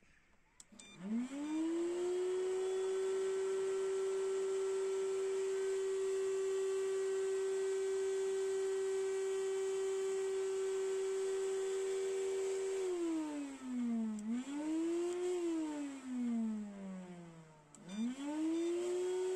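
Changi 3000 W vacuum cleaner motor switched on with a click, spinning up within a second to a steady high whine. About 13 seconds in its pitch winds down, picks up briefly, and winds down further. After another click near the end it spins back up to full speed.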